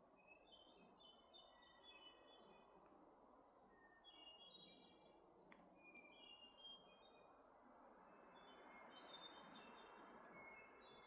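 Faint wood thrush song: repeated short phrases of clear notes at shifting pitches, answered by other songbirds. Wind noise swells in the second half.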